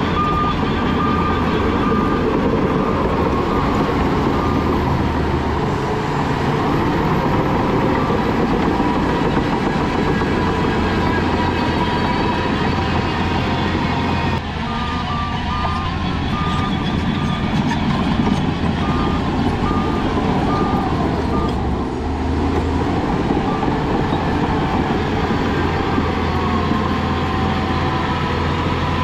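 Heavy diesel earthmoving machinery running steadily under load. A reversing alarm beeps at an even pace in the first few seconds, then again for about seven seconds from the middle.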